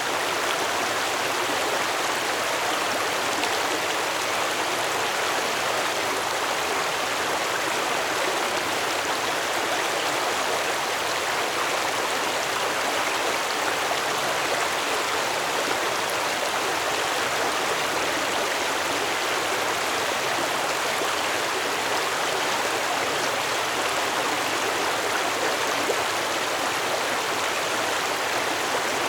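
Stream water flowing and babbling over rocks, a steady rushing with no change.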